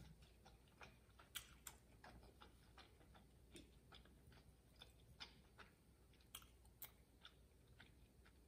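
Faint close-up chewing of a mouthful of tteokbokki with the mouth closed: a string of small, irregular wet mouth clicks, two or three a second.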